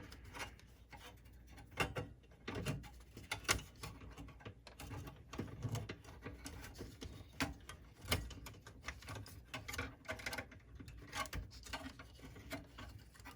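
Plastic guide rail of a Pioneer CLD-59 laserdisc player's laser sled being worked loose by hand: irregular small clicks, knocks and rubbing of plastic against the chassis.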